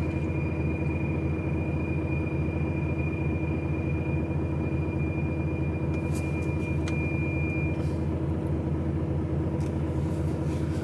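HGV lorry's diesel engine running steadily, a low even drone heard from inside the cab. A thin high whine sits over it and fades out about eight seconds in.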